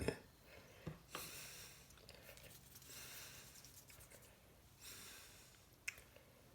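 Faint, soft scraping strokes, three short ones a couple of seconds apart, with a few light clicks: filler being worked into the cracks of a ceramic bowl.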